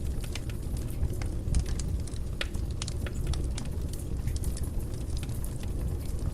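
Wood fire burning in a fireplace: a steady low rumble of flames with frequent, irregular sharp crackles and pops of burning wood.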